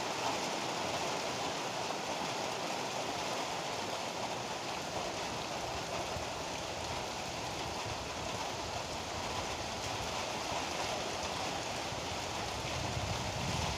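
Heavy rain falling steadily, a dense even hiss. A low rumble of thunder starts to build near the end.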